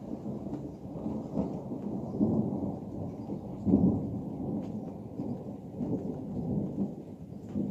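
Rolling thunder: a long low rumble that swells and fades several times, loudest about four seconds in, with light rain ticking faintly.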